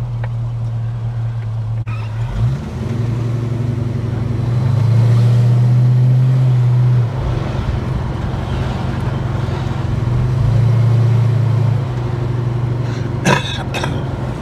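Holden HK's engine heard from inside the car while driving, a steady low drone that swells louder twice for a couple of seconds under throttle. A brief knock or rattle near the end.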